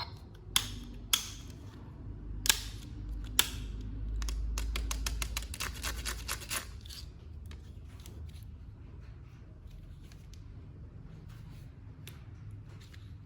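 Hands handling a toy figure and its packaging. Four sharp clicks come first, then a quick run of clicks lasting about two seconds, then fainter scattered clicks.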